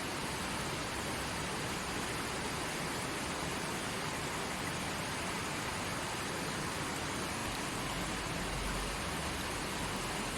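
Forest stream flowing over rocks, a steady rushing babble of water.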